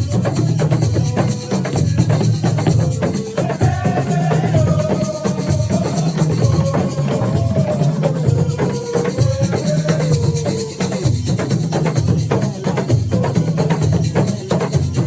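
Assiko music: fast, dense drum and percussion strokes keep a steady groove. A single wavering melody line rises and falls over it from about three to eleven seconds in.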